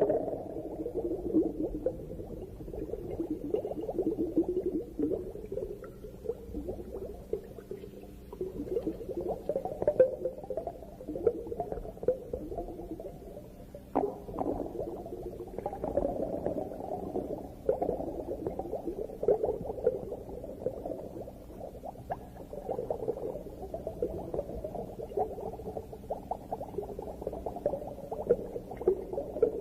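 Underwater bubbling and gurgling that swells and fades in irregular surges every few seconds, with scattered small clicks.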